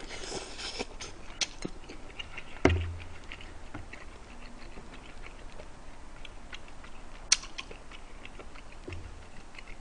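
A person chewing a mouthful of bulgogi and glass noodles close to the microphone, with small wet mouth clicks throughout. There is a dull thump about two and a half seconds in and a sharp click near the end.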